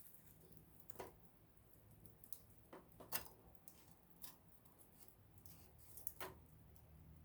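Small wood campfire crackling: faint, irregular snaps and pops of burning wood, about one every second, over a low steady hum.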